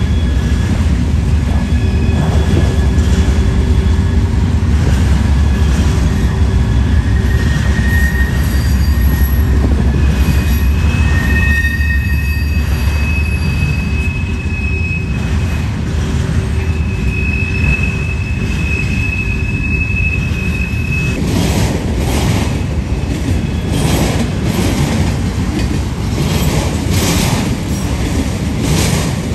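Freight train rolling past at close range: a steady heavy rumble of cars and wheels, with thin high-pitched wheel squeals coming and going through the first two-thirds. In the last third the squeals stop and a rapid clicking clatter of wheels takes over.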